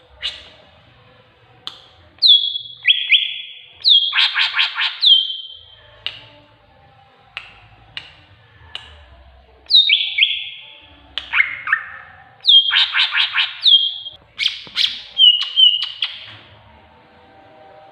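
Tengkek buto kingfisher calling: loud, sharp notes that drop quickly and then hold level, some stepping down to a lower note, with fast rattling runs of short notes, repeated in about three bouts.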